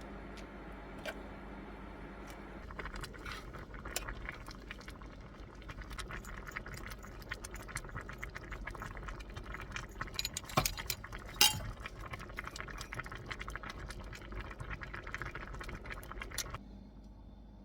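Small hard objects clinking and rattling as they are handled, with two louder knocks about two-thirds of the way through, over a steady hiss that cuts off abruptly near the end.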